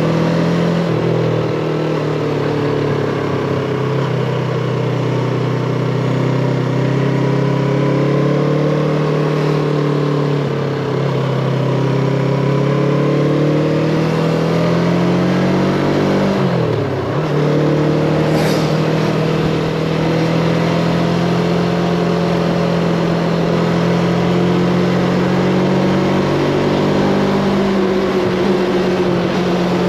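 Yamaha MT-25's parallel-twin engine running under the rider's throttle, its pitch drifting up and down with speed. About 17 seconds in the revs dip sharply and climb straight back, as in a gear change, followed by a short click.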